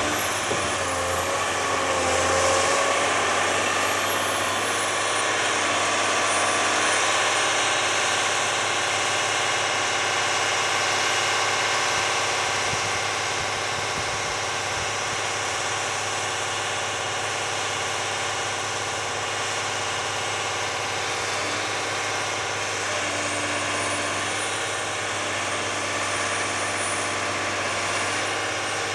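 Madill 2200 feller buncher's engine running steadily at idle. A whine glides up and down in the first few seconds and again near the end.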